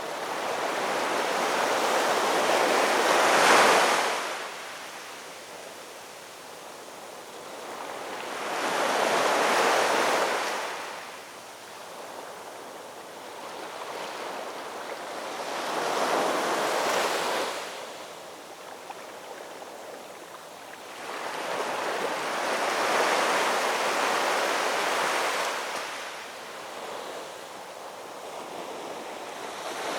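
Ocean waves breaking and washing up the shore. The surf swells and fades about four times, roughly every six to seven seconds, over a steady hiss of water between breakers.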